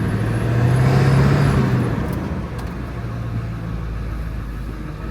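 Ford 7.3 L Power Stroke turbo-diesel V8 pulling the truck under acceleration: the engine note swells and climbs slightly for about two seconds, then eases off and runs steadier.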